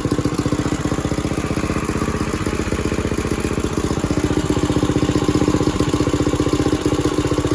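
A 1970 Bird minibike's small single-cylinder engine idling steadily at about 1,800 to 2,000 rpm, with a fast, even firing pulse.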